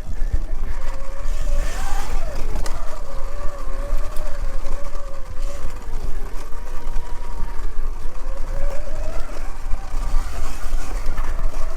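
Segway X160 electric dirt bike riding on a trail, its motor giving a faint whine that rises and falls with speed, under heavy wind rumble on the microphone.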